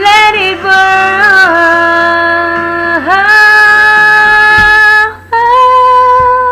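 A woman singing long held notes without words, sliding into each one, with a short break for breath a little after five seconds before a last sustained note.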